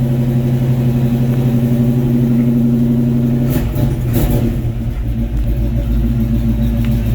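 1941 Chevrolet pickup's engine idling steadily shortly after a cold start; its note changes about halfway through, where a couple of short knocks are heard.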